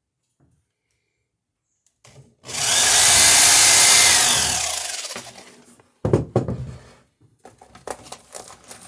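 A power tool runs loudly for about three seconds and winds down, followed by a knock and a scatter of wooden clattering.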